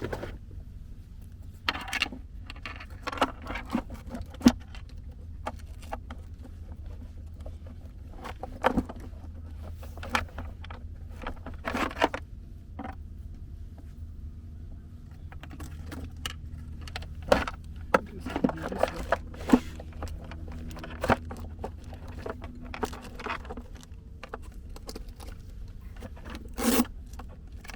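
Irregular scrapes, clicks and rustles, some sharp, over a steady low rumble.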